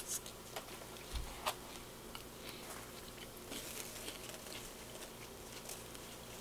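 Someone biting into a bacon cheeseburger, then chewing with the mouth closed: faint, irregular small clicks and crackles, a few sharper ones in the first second or two.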